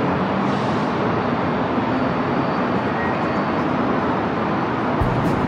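Steady noise of a freight train's boxcars and tank cars rolling past at a distance, blended with city background noise. Music with thumping beats comes in half a second before the end.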